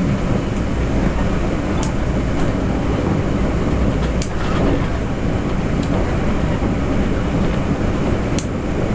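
Cabin noise of a Taroko Express electric train running at speed: a steady low rumble of wheels on rail, with a few sharp clicks scattered through it.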